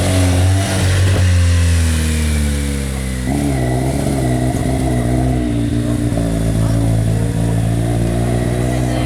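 Vehicle engine running close by, a loud steady note that starts suddenly, then wavers up and down in pitch from about three seconds in.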